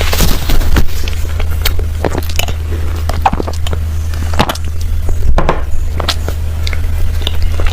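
Close-miked wet eating sounds from creamy cake: irregular squishy smacks and clicks of lips, tongue and chewing, over a steady low hum.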